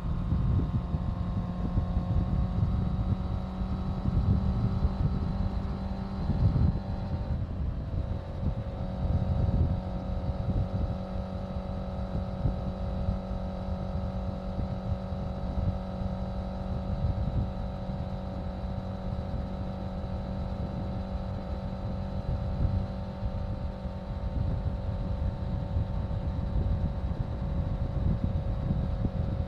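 Honda CBR650F's inline-four engine running at a steady cruise while riding, with wind buffeting the microphone. The engine note breaks briefly about seven seconds in, then holds a slightly lower pitch.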